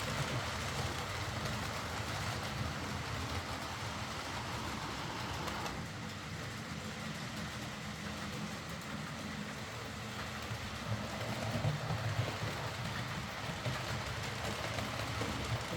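Hornby OO gauge Britannia Class model steam locomotive running on track, a steady motor whirr with wheel and rail noise, growing duller about six seconds in.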